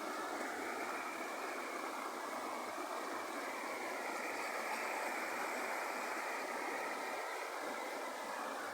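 Mountain stream water running in a steady, even rush.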